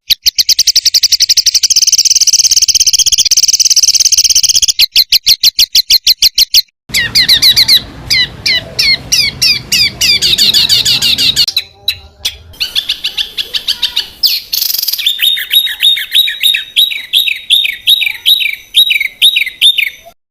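Small songbirds calling in a rapid, harsh run of high repeated notes ('tembakan'), spliced from several recordings that change abruptly every few seconds. It ends with an evenly spaced series of short falling notes, about two or three a second.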